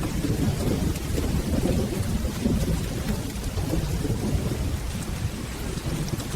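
Steady rain with a continuous low rolling rumble of thunder underneath.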